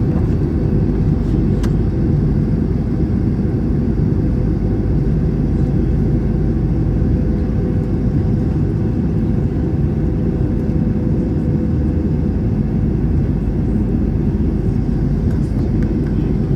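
Steady cabin noise inside an Airbus A321 in flight: a dense low rumble of engines and airflow, with a faint steady hum over it.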